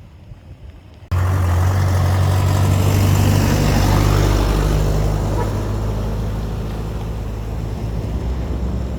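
A motor vehicle's engine drone and tyre noise, starting suddenly about a second in, swelling to a peak at around four seconds and then slowly fading as it passes by close on the road.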